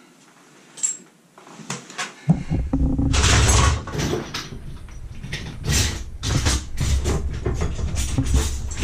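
Rummaging and handling noise: objects knocked, rubbed and shifted about, with a low rumble from a little over two seconds in.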